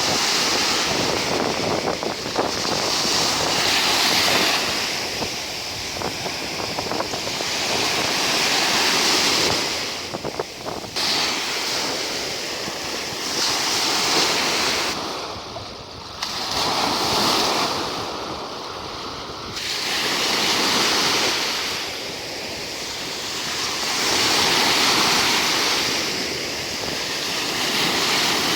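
Sea surf: waves rolling in and breaking on the shore, swelling and fading every four to five seconds, with some wind on the microphone.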